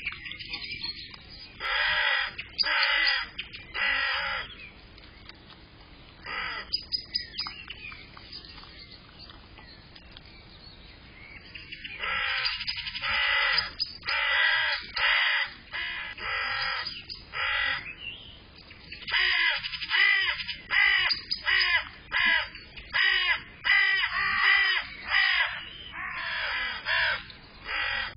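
Harsh bird calls repeated in runs: three around two to four seconds in, then, after a quiet gap with a few faint clicks, a long run of many calls from about twelve seconds in onward.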